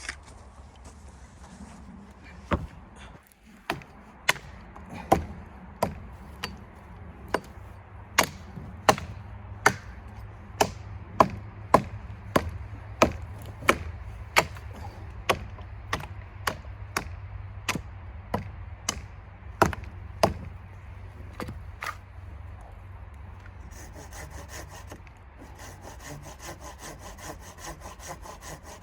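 Wood being chopped with about thirty quick, sharp strikes, roughly one and a half a second. Near the end the chopping stops and sawing through wood begins with fast, even strokes.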